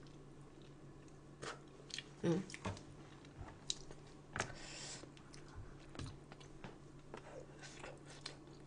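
Quiet close-up chewing of bone-in braised spicy chicken, with scattered small mouth clicks and a brief vocal sound about two seconds in.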